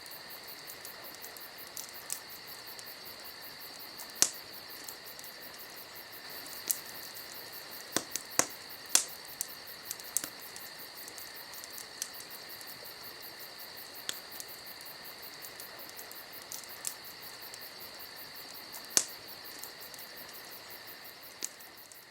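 Wood fire crackling: sharp, irregular pops and snaps over a steady high hiss, fading out at the very end.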